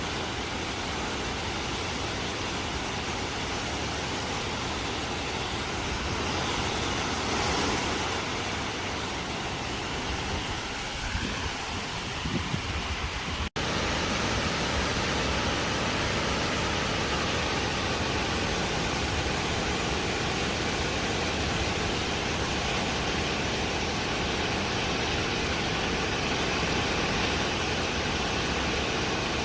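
Waterfall: rushing water making a steady, even noise, with a brief cut about halfway through.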